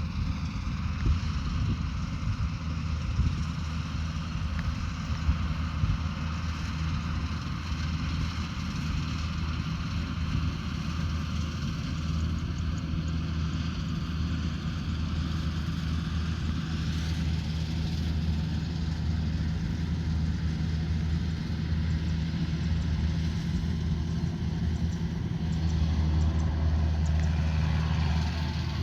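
Combine harvester engine running steadily, a low hum that grows louder near the end.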